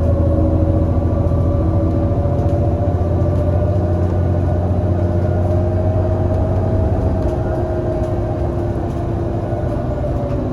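Irisbus Citelis 18 articulated bus with its IVECO Cursor 8 CNG engine pulling steadily, while a whine slowly rises in pitch. About seven seconds in the deep engine note drops away and the whine slowly falls as the bus coasts.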